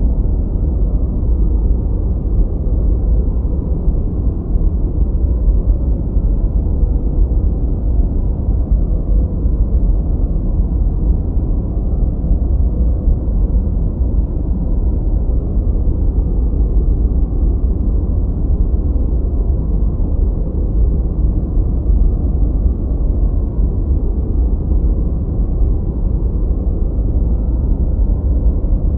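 Continuous, unchanging noise track, labelled white noise but dark in sound: a deep, steady rumble with almost no hiss.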